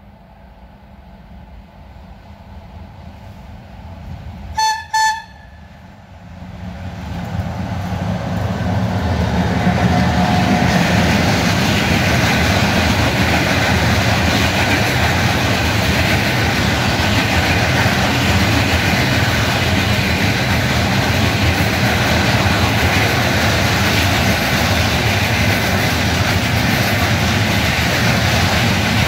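Railway train horn sounding two short blasts about five seconds in. The train then comes up and passes close by, its wheels running loudly on the rails for the rest of the time.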